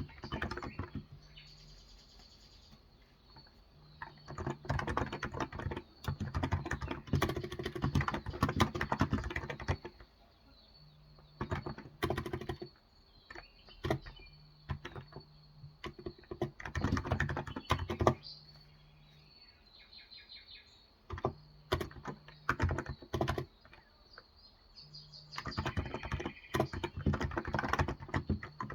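Typing in bursts on a Cox Endeavour tenkeyless keyboard with electrostatic capacitive (Topre-style) 35 g switches: runs of rapid key clicks a few seconds long, broken by short pauses. Birds chirp now and then.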